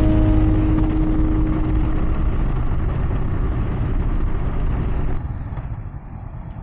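Motorcycle engine and wind noise from riding along, with the tail of background music fading out in the first second. The noise drops sharply in level about five seconds in.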